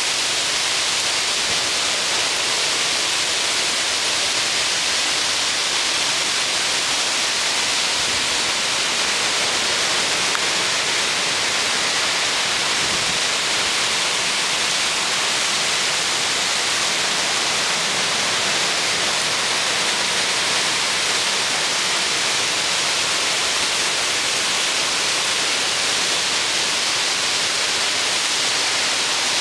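Wind blowing through trees, a steady hiss of moving leaves and branches that holds an even level throughout.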